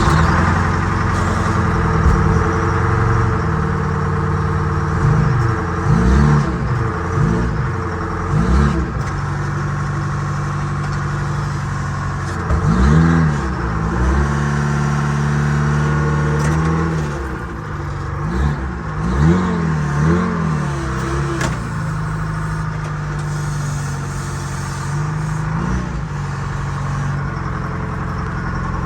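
Vehicle engine running steadily under load and revved up and back down several times as it pushes to tip a truck over.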